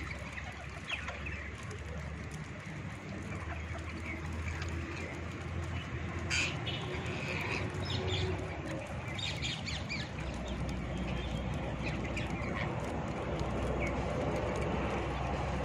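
Parrots giving short, scattered chirps and squawks over a steady low hum, with a sharp click about six seconds in.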